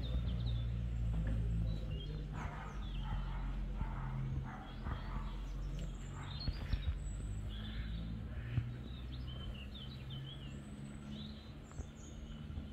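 Small birds chirping and singing in many short, high calls, over a steady low hum.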